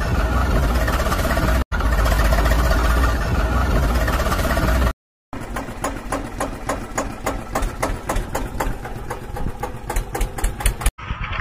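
The small motor of a DIY model tractor runs with a steady drone. After a cut about five seconds in, a rapid run of clicks and rattles comes faster and faster towards the end.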